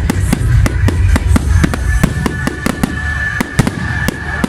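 Fireworks going off: many sharp bangs and crackles in quick succession, over a deep rumble that fades about halfway through, with a steady high whistle held through the middle.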